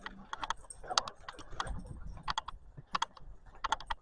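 Irregular quick clicks and taps, coming in small clusters of a few at a time.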